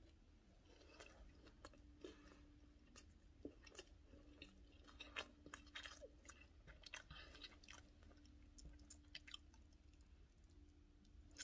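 Faint chewing of a mouthful of blackened chicken sandwich: soft, irregular wet crunches and clicks of bun and chicken being chewed with the mouth closed.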